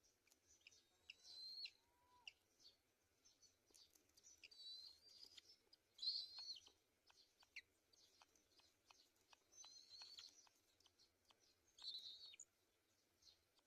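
Birds chirping in short, high-pitched bursts, several times over, loudest about six seconds in and again near the end.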